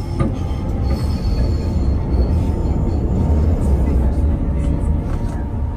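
Steady low rumble of a moving train heard from inside the passenger carriage, with a faint high squeal between about one and two and a half seconds in.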